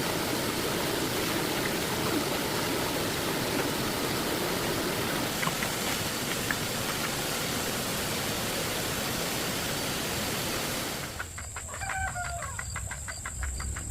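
Steady rushing noise like flowing water that cuts off suddenly about eleven seconds in, giving way to a quieter background with faint rapid ticking and a short call, possibly from a bird.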